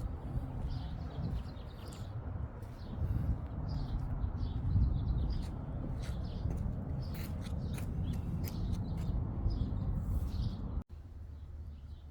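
Birds chirping and calling in short, high notes over a steady low rumble.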